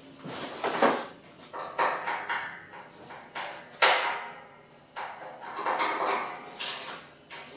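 Irregular knocks, clunks and short scrapes as a panel is worked off an espresso machine's frame, pushed up and pulled back; the sharpest knock comes a little under four seconds in.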